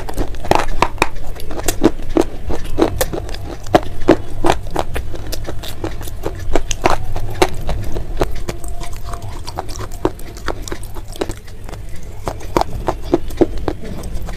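Close-up chewing of crunchy, crumbly grey clay-like chunks: many sharp, irregular crunches, several a second, over a low steady rumble.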